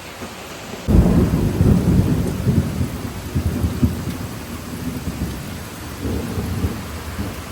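Thunder over steady rain: a sudden loud crack about a second in, then a long low rumble that rolls and slowly fades.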